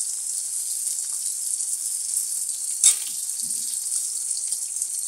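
Green and red chillies sizzling as they fry in hot oil in a steel kadhai, stirred with a slotted metal spatula. About three seconds in, a single sharp metal clink of the spatula against the pan.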